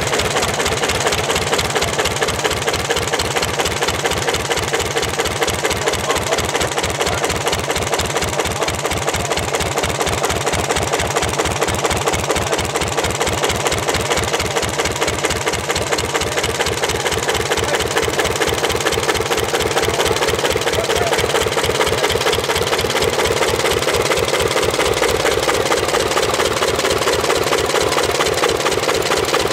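Cutaway Ford Model T four-cylinder flathead engine running steadily at idle, with an even, quick beat of firing pulses.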